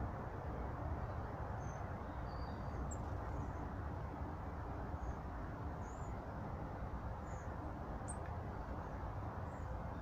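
Short, faint, high bird chirps, about eight scattered through, over a steady low rumble of background noise.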